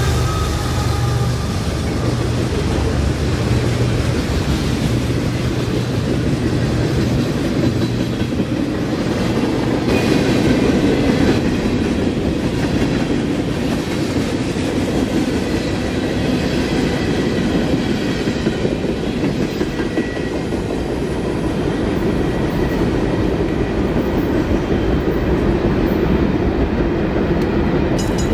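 Freight train rolling past, a steady rumble and clatter of its wheels on the rails, with a deeper engine-like low tone in the first several seconds.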